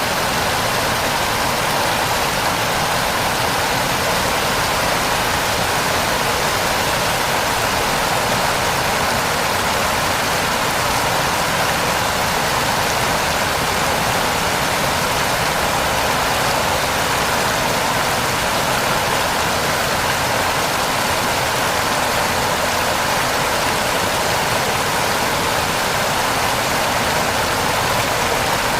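Heavy rain falling steadily, an even, unbroken wash of noise with no separate drops or events standing out.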